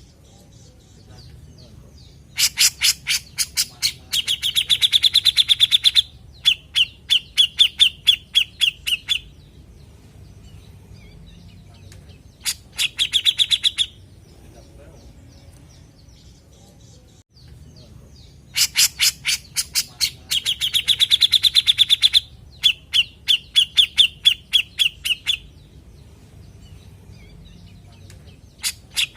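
Cucak jenggot (a bulbul) giving loud, rapid chattering calls: bursts of quick sharp notes that speed into a dense rattle, a few seconds each with short pauses between. The same sequence of bursts repeats about sixteen seconds later, as from a looped recording.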